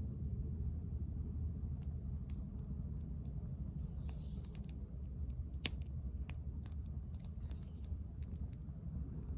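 Wood fire in a fire pit crackling: scattered sharp pops, one louder about halfway through, over a steady low rumble. A bird chirps faintly twice.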